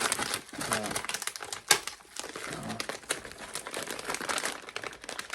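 Plastic Skittles bag crinkling as it is handled, with many small sharp clicks and one louder click a little under two seconds in.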